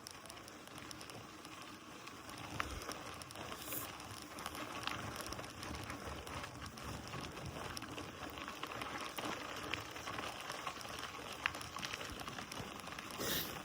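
Mountain bike tyres rolling over a dirt and gravel trail: a steady crackling hiss with scattered small clicks.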